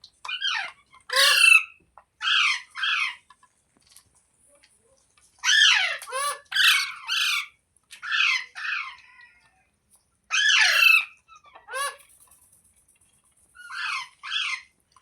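Green parrot squawking: harsh calls that slide down in pitch, coming in clusters of two or three with short pauses between.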